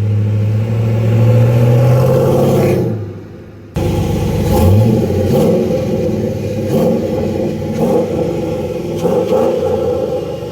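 Chevy 5.3-litre LS V8 running through a single Magnaflow muffler exhaust. Its note rises steadily for about three seconds and fades, then cuts abruptly to several quick revs. The owner says the engine has some header leaks at its stock manifold gaskets.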